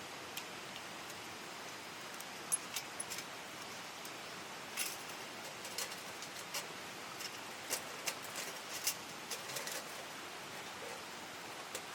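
Steady rush of a small mountain stream, with scattered sharp clicks and snaps.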